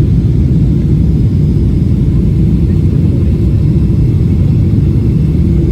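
Steady low rumble of a jet airliner heard from inside the passenger cabin, engine and airflow noise holding an even level.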